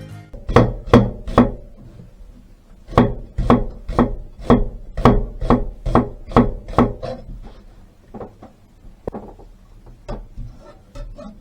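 Kitchen knife chopping on a wooden cutting board, the blade striking the board at an even pace of about two strokes a second; the chopping turns fainter and more scattered after about seven seconds.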